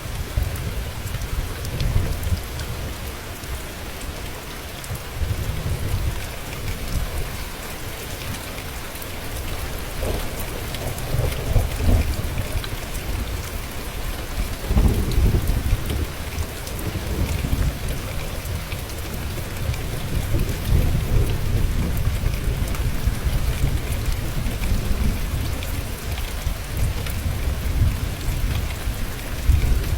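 Steady heavy rain falling, with low rolling thunder rumbling up and fading away several times.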